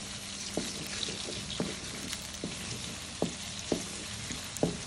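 Eggs frying in hot oil in a metal wok with a steady sizzle, stirred slowly with a wooden spatula that knocks against the wok about six times.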